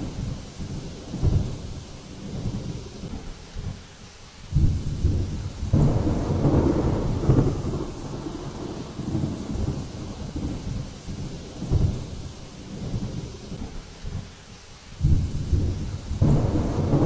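Thunderstorm: rain with deep rumbling that swells loud about four and a half seconds in and again near the end.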